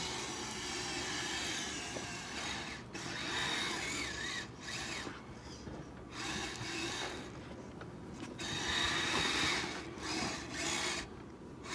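Kyosho Blizzard radio-controlled snowcat's electric motor and tracks whirring as it drives through snow. The sound drops away briefly several times as the throttle is let off.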